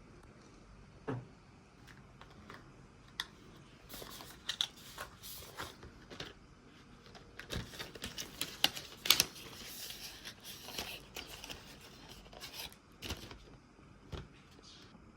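Scattered light clicks, taps and rustles of small household objects being handled, busiest in the middle with a few sharper ticks.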